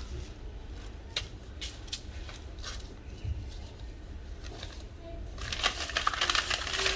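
Hands handling and wrapping bunches of mint: scattered light clicks and taps, then dense crinkly rustling for the last second and a half.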